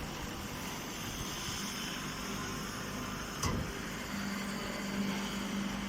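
Hydraulic straw baler running with a steady mechanical hum and noise, one sharp knock about three and a half seconds in, and a low steady tone coming in about a second later.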